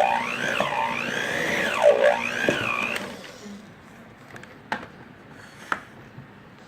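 Handheld electric mixer running as it shreds cooked chicken in a mixing bowl, its motor whine dipping and rising in pitch about once a second, then switched off about three seconds in. Two faint clicks follow.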